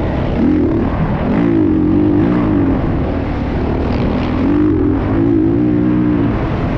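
Motocross dirt bike engines revving, the pitch rising and falling several times as the throttle is opened and closed, over a steady low rumble.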